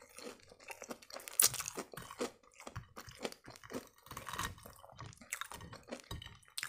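A person chewing breaded, fried fish triangles with the mouth closed, with irregular crunches from the crisp crust.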